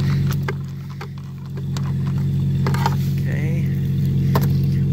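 Jeep Cherokee XJ engine idling steadily, its exhaust running without a catalytic converter through the stock muffler, with a few sharp clicks and knocks from a socket ratchet and hand tools at the tail light.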